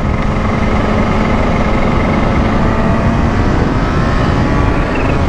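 Kawasaki H2's supercharged inline-four running at a steady road speed, under heavy wind rush on the microphone. The engine note eases slightly after about three seconds.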